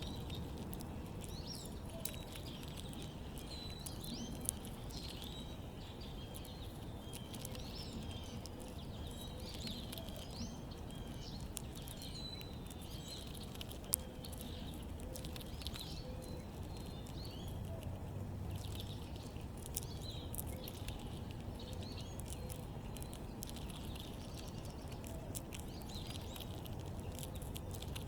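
Small backyard birds calling: many short, high chirps overlapping throughout, with scattered ticks and a couple of sharp clicks, over a steady low background rumble.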